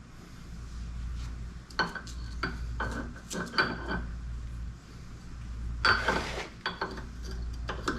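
Metal parts clinking and knocking together as they are handled: a run of sharp clinks, then a longer rattle about six seconds in and one more clink near the end, over a steady low hum.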